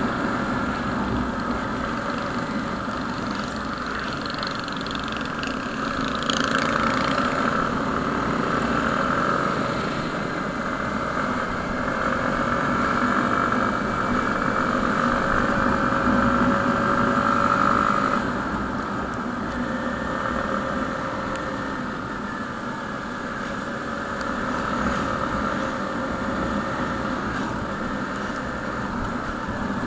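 Motorcycle engine running at a steady cruise while riding, its pitch shifting gently with the throttle. It is a little louder through the middle and eases off about two-thirds of the way in.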